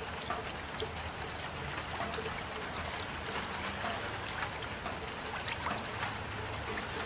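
Steady rain, with many separate drop hits standing out against the even wash of falling water.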